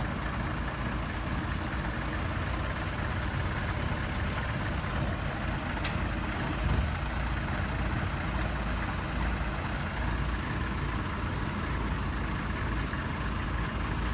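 Heavy vehicle engine running steadily, a continuous low rumble, with a single sharp click about six seconds in.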